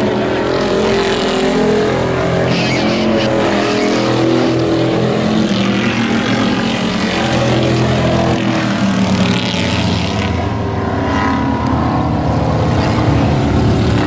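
Several hobby-class race trucks running around the oval together, their engine notes overlapping and rising and falling in pitch.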